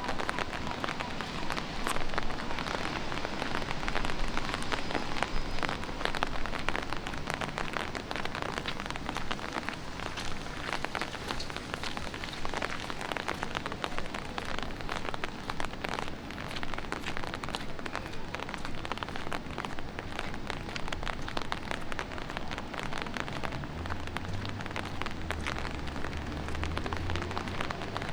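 Light rain pattering on hard city surfaces: a steady hiss full of small drop ticks. A low hum joins near the end.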